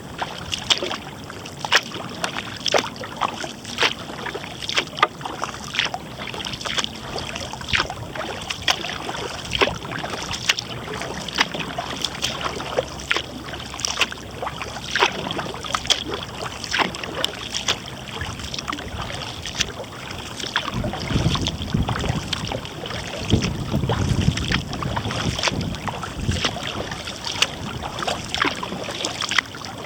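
Kayak paddle strokes: the blades dip and splash into the water about once a second, with water dripping off them. A low wind rumble on the microphone rises about two-thirds of the way through.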